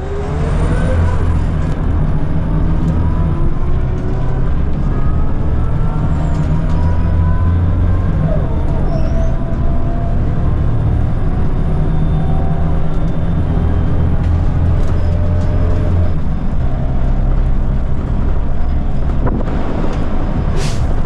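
Scania L94UB city bus driving, its engine running under load with its ZF automatic gearbox whining in rising tones as the bus gathers speed. The engine note eases about three quarters of the way through, and there is a sharp click near the end.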